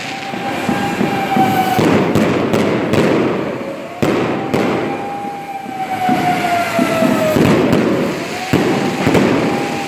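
Fireworks going off: crackling and sharp pops, over a whistling tone that rises and then slowly falls, three times about four seconds apart.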